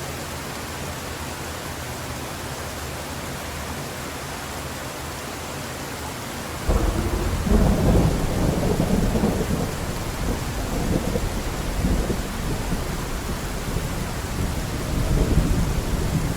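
Steady heavy rain hiss; about two-thirds of the way in, a deep rumble of thunder sets in suddenly and rolls on, rising and falling, over the rain.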